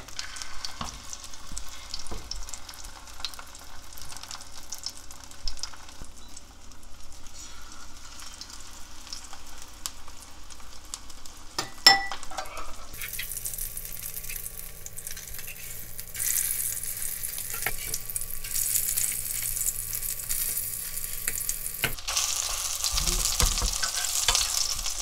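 Egg-dipped oysters frying in hot oil in a pan, a steady crackling sizzle with a sharp click about twelve seconds in. The sizzle grows louder and brighter in the second half, and near the end a metal spatula knocks against the pan.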